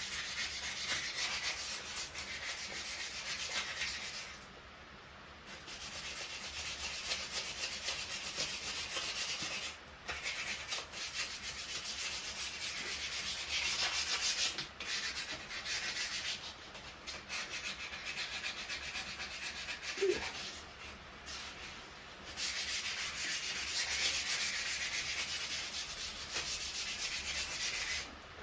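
Hand sanding: quick back-and-forth rubbing strokes with a dry scratchy hiss, in several long bouts broken by short pauses.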